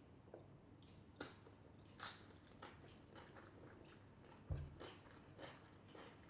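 Faint eating sounds: scattered crisp bites and chewing clicks, with a soft thump about four and a half seconds in.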